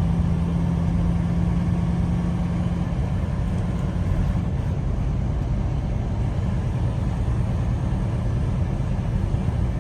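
Semi-truck's diesel engine running steadily under way, a low rumble with a steady drone.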